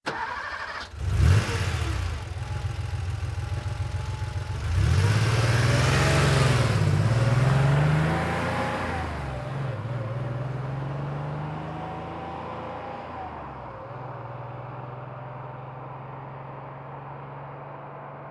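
1990 Porsche 911's air-cooled flat-six starting with a short crank, catching about a second in with a flare of revs, idling briefly, then pulling away at medium speed with the engine note rising and falling through the gears. The sound then fades steadily as the car drives off.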